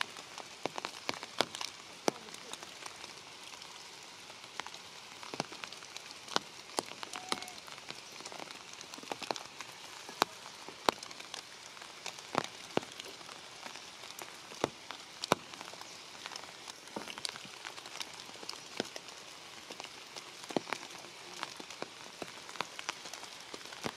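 Rain falling: a steady patter with irregular sharp drops striking leaves and branches.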